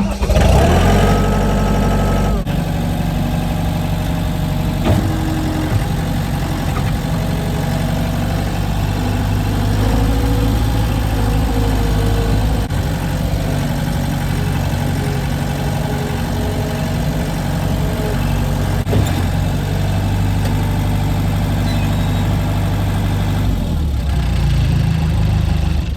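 A vehicle engine running steadily, with a few sharp knocks along the way.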